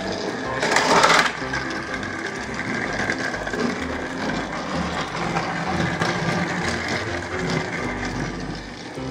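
Battery-powered TrackMaster toy trains running on plastic track, a steady motor whir throughout, with a louder half-second burst of scraping noise about a second in.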